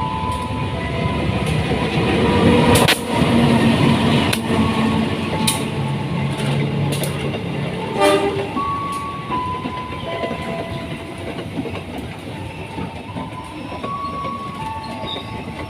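The Bandung Raya local train passing loudly, its wheels and running gear rumbling, with a short horn blast about eight seconds in. A two-tone beeping alternates in the background.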